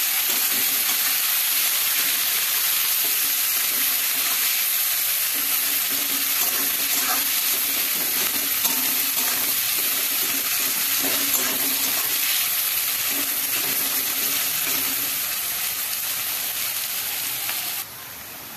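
Onions frying in hot oil in a pan: a steady sizzle with a few light scrapes of stirring. The sizzle cuts off suddenly near the end.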